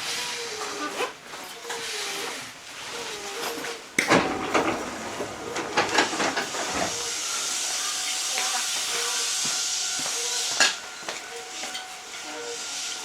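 Inside a Hankyu 8000 series train car with Toshiba GTO-VVVF drive: a low, wavering electrical tone under a noisy rumble. Loud sharp clatters come about four seconds in and again near eleven seconds, and a steady high hiss runs through the middle.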